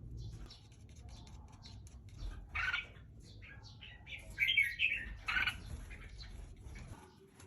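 Red-whiskered bulbul chirping in quick short notes, with a few louder calls about two and a half seconds in and again between four and a half and five and a half seconds.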